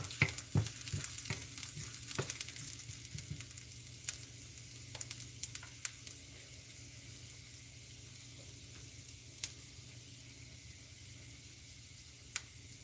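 Julienned ginger, green chili and cumin and carom seeds sizzling in hot oil in a stainless steel pan, with crackles and spatula clicks while a wooden spatula stirs them at first. The frying then settles into a steady sizzle with an occasional sharp pop.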